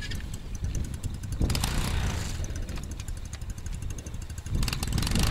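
Snowmobile engine running with a rapid, even firing rhythm but not revving up, the sign of a failing spark plug.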